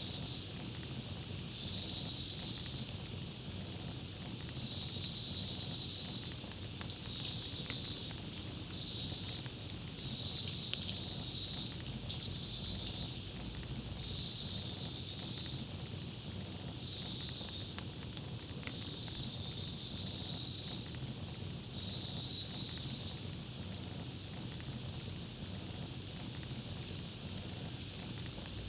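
Campfire crackling: a steady hiss of burning wood with many small sharp pops. Over it, a high trilling call repeats in short bursts of about a second each until near the end.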